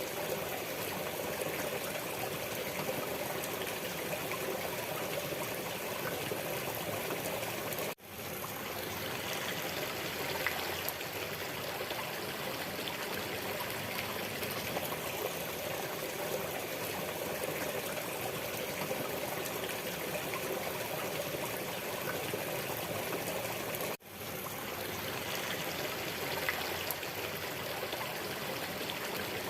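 Waterfall water running in a steady, even rush. It cuts out for an instant twice and swells straight back.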